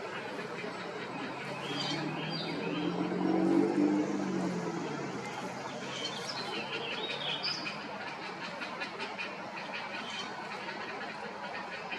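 Small birds chirping over a steady outdoor background, with short high chirps in two clusters. A low hum swells and fades during the first few seconds and is the loudest sound.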